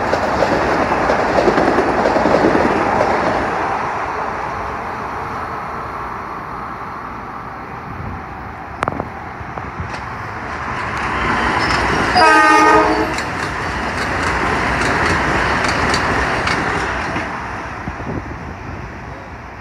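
Metro-North M7 electric multiple-unit trains running through the station without stopping: the first rumbles past on the rails and fades away, then about twelve seconds in an approaching M7 gives one horn blast of about a second, the loudest sound, and its rumble swells and trails off.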